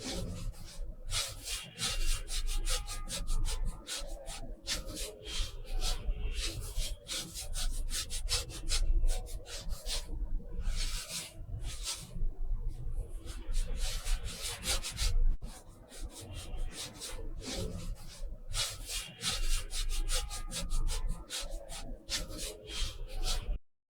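Paintbrush strokes on watercolour paper: a rubbing sound in quick, repeated strokes with short pauses between them, stopping abruptly near the end.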